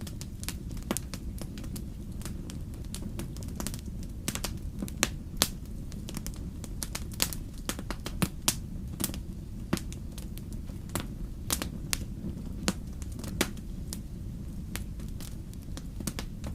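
Wood fire burning in a fireplace: irregular crackles and sharper pops over a steady low rumble.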